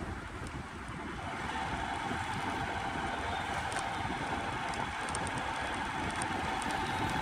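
Steady road-vehicle noise during a ride, a continuous rumble with a faint held whine and wind on the microphone.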